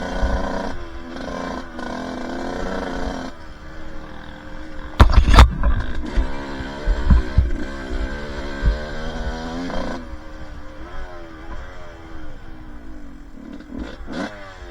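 Two-stroke dirt bike engine running under varying throttle, its pitch rising and falling, with a loud thump about five seconds in. From about ten seconds in the engine drops to a lower, quieter running with its pitch sweeping up and down.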